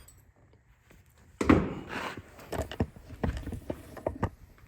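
A series of irregular knocks and clunks, the first and loudest about a second and a half in, the rest following at uneven intervals for about three seconds.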